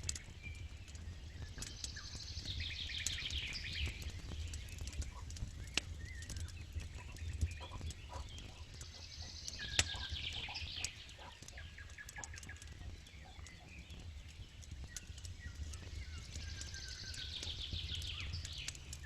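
Campfire crackling with scattered sharp pops over a low steady rumble, while a songbird sings a short descending trilled phrase three times, about every seven or eight seconds.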